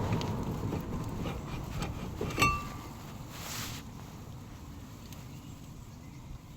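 A single metallic clink about two and a half seconds in, a tool or part striking metal and ringing briefly, over a low rumble that fades away, with a few faint ticks.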